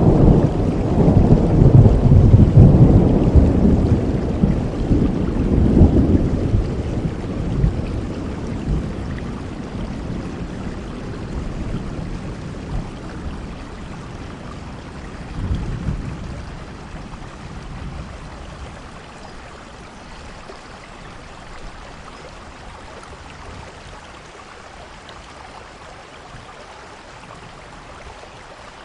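Steady rainfall with a long roll of thunder that is loudest in the first several seconds and fades away, then a smaller rumble about halfway through.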